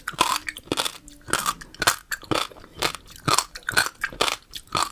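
Close-miked chewing of a mouthful of tender fruit seeds: crisp crunches in a steady rhythm, about two a second.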